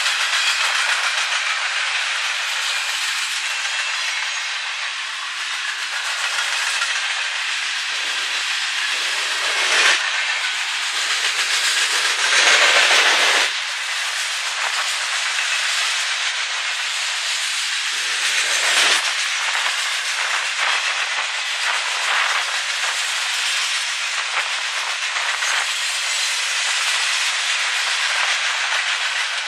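Train cars rolling past: a steady rush of steel wheels on rail with some clacking, louder for about a second roughly twelve seconds in.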